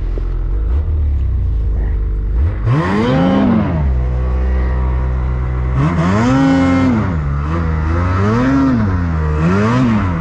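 Snowmobile engine revving up and down in repeated surges, about two and a half seconds in, again around six seconds, and twice more near the end, over a steady low hum.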